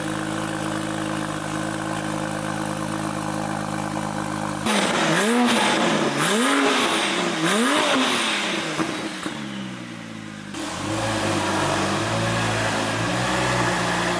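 Porsche 997 Turbo's twin-turbo flat-six running through a custom turbo-back exhaust: idling steadily, then revved three times in quick succession about five to eight seconds in, then idling again.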